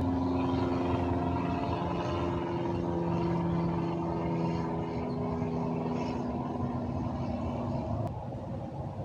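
Northbound train running past, a steady mechanical noise with several held tones that fade out towards the end, the level dropping about eight seconds in.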